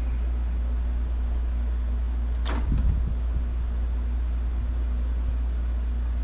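Steady low workshop hum, with one sharp clatter about two and a half seconds in and a few light clicks after it: work noise as the oil drain on the mower engine is opened.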